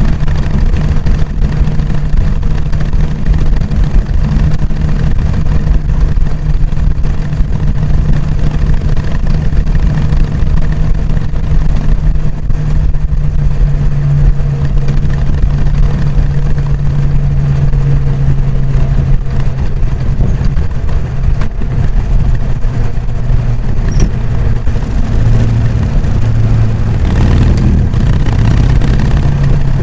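Harley-Davidson Sportster XL883N Iron's air-cooled 883 cc V-twin running on its stock exhaust while riding. The engine holds a steady note, drops lower in pitch about halfway through, then rises and falls with the throttle near the end, where there is a brief rush of noise.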